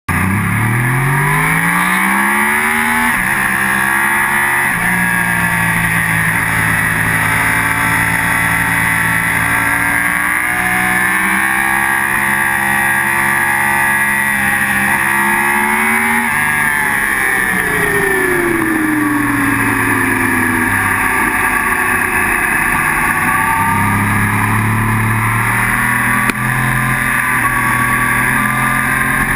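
Sport motorcycle engine under hard throttle, heard from the bike itself: the revs climb steeply through a gear at the start, then keep rising slowly down the straight. A little past halfway the revs fall away, then climb again near the end.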